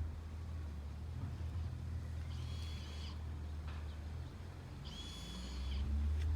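Garbage truck's diesel engine running as a steady low rumble that grows louder near the end, with two short, high-pitched whistle-like tones about two seconds apart.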